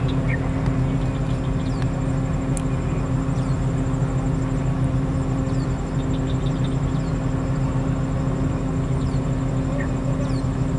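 Heavy truck diesel engine running steadily at a constant speed, with faint short high chirps and a single sharp click a few seconds in.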